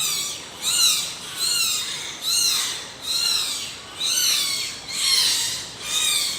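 A bird calling over and over: high-pitched calls that rise and fall, a little under one a second.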